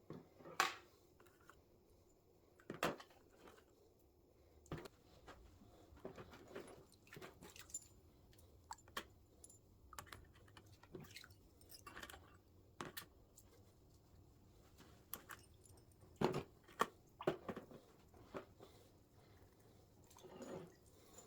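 Small metal bolts and parts being handled during zinc plating: scattered light clinks and knocks at an irregular pace, a few louder ones about half a second in and around sixteen seconds in.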